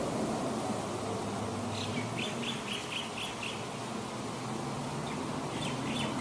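A small bird giving a quick run of about seven short, high chirps, then a few more near the end, over a steady background hiss and low hum.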